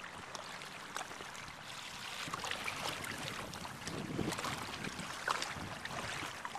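Water splashing and lapping against an inflatable kayak under way, with wind noise on the microphone.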